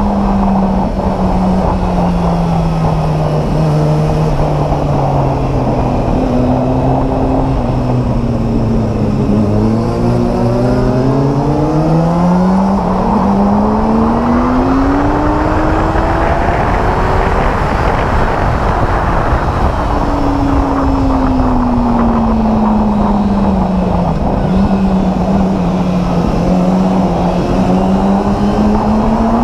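A 600cc inline-four sport bike engine under hard riding, its pitch sinking slowly for several seconds and then climbing steeply, again from about two-thirds through, over a constant rush of wind noise.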